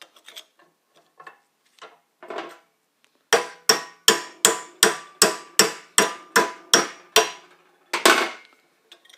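Hammer striking metal: eleven quick, evenly spaced blows, about two and a half a second, each with a short metallic ring, then one more blow a little later. Faint light clicks of handling come before the hammering.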